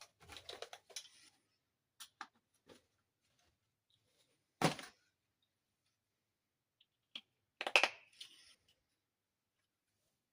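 Toy dollhouse furniture pieces being handled and set down: scattered light clicks and taps, a sharper knock about halfway through, and a quick cluster of clicks near the end.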